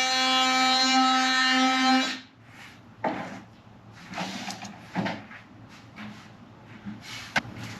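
Guitar background music for about two seconds, cutting off suddenly; then scattered knocks, bumps and short scrapes of wooden pieces being handled and fitted, with a sharp click near the end.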